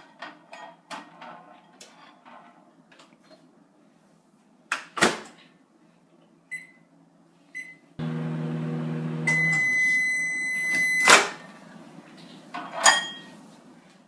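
Microwave oven in use: handling clicks and a knock, two short keypad beeps, then the oven running with a steady hum and a long high beep over it, cut off by a loud clunk about three seconds later, followed by a few more clicks.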